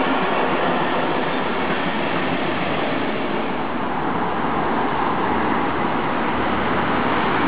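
Steady rolling noise of passing electric trains, wheels running on the rails: a regional train of red passenger coaches hauled by an electric locomotive going by, with a Class 440 electric multiple unit coming in behind it.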